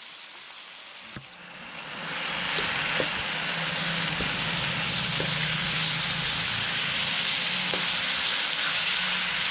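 Pork ribs sizzling in a hot wok. After a single click about a second in, the sizzle swells over about a second, then holds steady.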